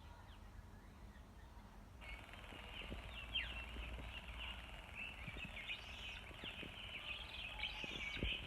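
Birds chirping outdoors: a dense chorus of many short chirps that starts abruptly about two seconds in and continues, over a low wind-like rumble, with a few faint knocks.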